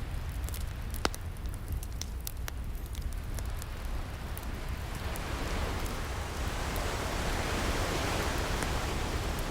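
Wood fire crackling with sharp pops, mostly in the first half, and an ocean wave washing in that swells from about halfway through, over a steady low rumble.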